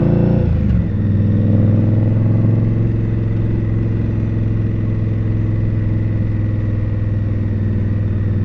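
Indian Scout V-twin motorcycle engine: its pitch falls within the first second as the revs drop, then it runs steadily at low revs.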